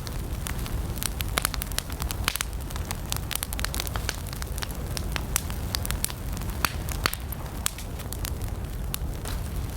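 Wood campfire burning, crackling with frequent irregular sharp pops and snaps over a low steady rumble of the flames.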